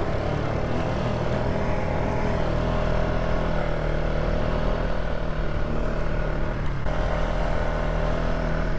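Polaris ATV engine running at a steady pace while riding, its low engine note joined by a steady whine.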